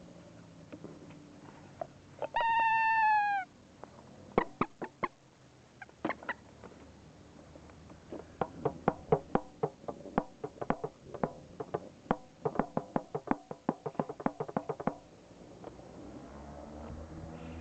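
Drum being struck: a few scattered hits, then a fast, uneven run of strikes lasting about seven seconds. Before the drumming, one drawn-out animal call of about a second, falling slightly in pitch.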